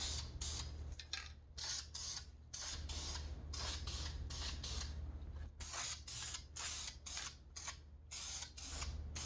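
Aerosol spray paint can hissing in repeated short bursts as a part is coated, over a steady low hum.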